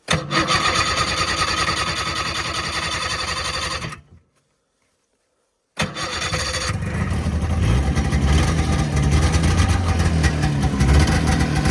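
A 1990 Arctic Cat Jag Deluxe snowmobile's two-stroke engine starting from cold and running. About four seconds in, the sound cuts out completely for about a second and a half, then the engine is heard running again with a steadier, deeper note.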